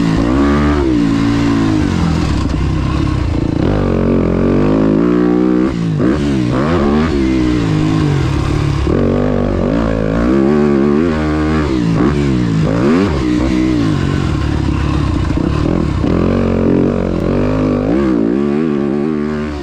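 Motocross dirt bike engine being ridden hard, revving up and dropping back over and over as the throttle is worked and gears change. Its pitch rises and falls every second or two, and it starts to fade right at the end.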